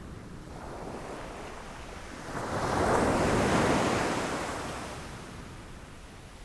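Ocean waves breaking against shoreline rocks: one wave surges in a little over two seconds in, crashes, and washes back as a fading rush.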